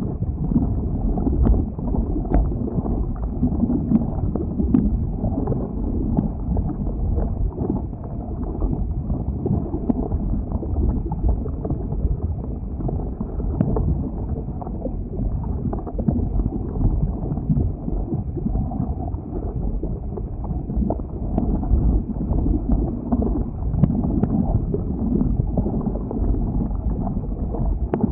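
Lava flow: a steady low rumble with wind on the microphone, and scattered faint crackles and clicks.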